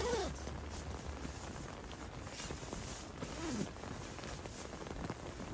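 Rain pattering steadily on a tent, with two short squeaks that fall in pitch, one at the start and one about three and a half seconds in.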